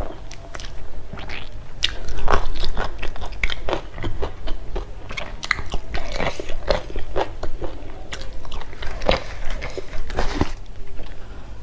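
A person chewing food close to a lapel microphone: irregular wet mouth clicks and chewing noises, several a second.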